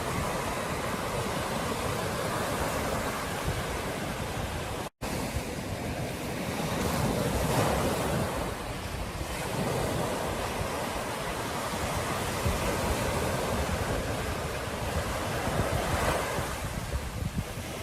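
Ocean surf washing on a beach in a steady rush, swelling as waves break a few seconds into the middle and again near the end, with wind buffeting the microphone. The sound cuts out completely for an instant about five seconds in.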